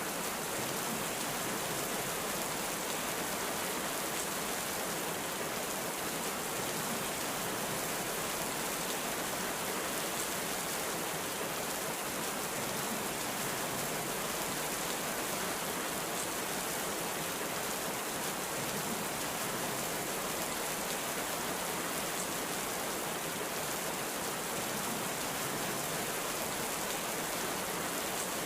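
Heavy rain falling steadily, an even, unbroken hiss of rain with no thunder or other distinct events.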